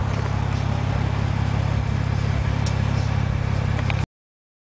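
Acura RL V6 with a Remus catback exhaust, running as a low, steady drone at an even engine speed. It cuts off abruptly about four seconds in.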